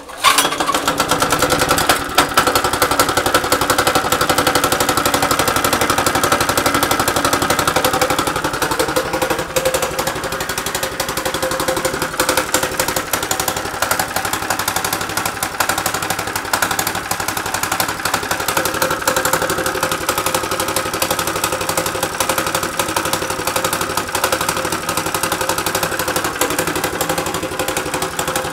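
Mini bike's small engine on a cold start: it catches right away and runs with a rapid, even firing, settling a little quieter about nine seconds in.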